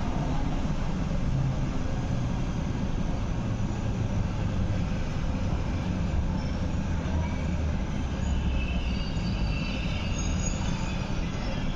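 Running noise heard from inside an MTR MLR electric multiple-unit train as it slows into a station: a steady rumble that falls in pitch. Faint high wheel squeal comes in over the last few seconds.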